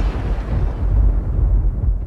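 Deep rumbling noise at the close of a rap-metal track, with no pitched notes. The upper part thins out and fades so that only a low, steady rumble is left.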